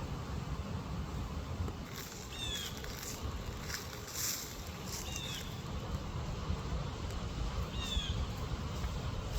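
A bird calling three times, a short high note sliding downward, about every two and a half seconds, over a steady low rumble of wind on the microphone.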